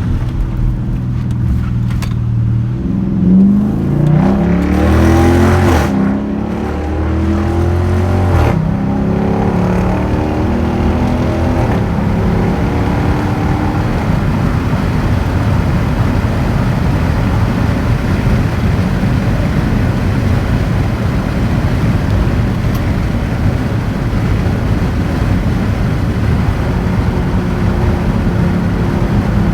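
Straight-piped 2021 Dodge Durango RT's 5.7-litre HEMI V8 accelerating, its exhaust note climbing in pitch twice in the first eight seconds or so, then settling into a steady low rumble with road noise as it cruises.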